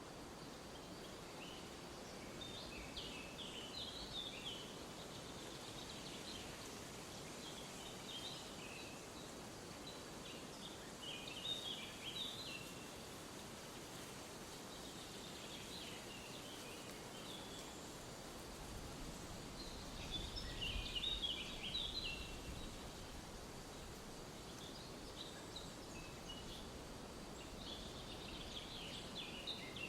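A songbird singing short twittering phrases of quick high notes, repeated every several seconds, over a steady hiss of forest ambience.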